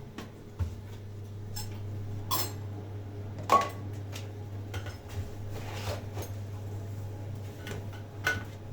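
Dishes and utensils clinking: a few sharp clinks with a brief ring, the loudest about halfway through, over a steady low hum.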